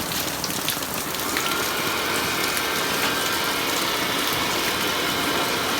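Steady rain falling on surfaces, with faint high steady tones joining about a second and a half in.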